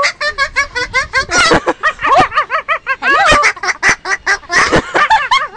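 A pet talking bird chattering: a rapid, unbroken string of short squawky notes that bend up and down in pitch, several a second.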